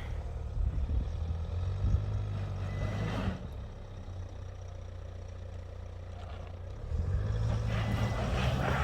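Vehicle engine running steadily under load, with a short rush of noise about three seconds in and growing louder from about seven seconds in, as its wheels slip on snow.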